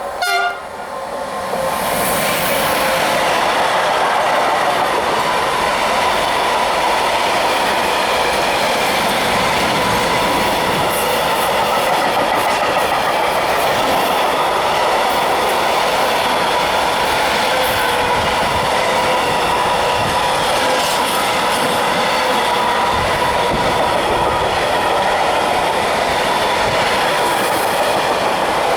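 A Traxx electric locomotive sounds a brief horn blast right at the start. Its intermodal train of loaded container flat wagons then rolls past with a loud, steady rumble and wheel clatter on the rails.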